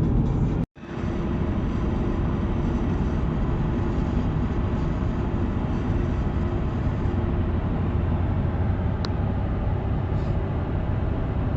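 Steady road and engine rumble inside a moving car, breaking off for a split second just under a second in before resuming.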